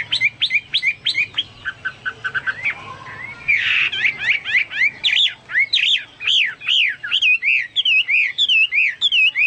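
Hwamei (Chinese hwamei, Garrulax canorus) singing a loud, varied song of quick sweeping whistles, with a string of short clipped notes. From about four seconds in it settles into a fast run of repeated rising-and-falling slurred notes. This is the full continuous singing that bird keepers call gacor, in a style that recalls a cucak Papua or cucak mas.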